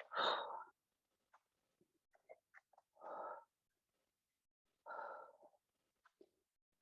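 A woman breathing out hard with exertion during a leg exercise: three heavy exhales about two seconds apart, the first the loudest, with a few faint clicks between them.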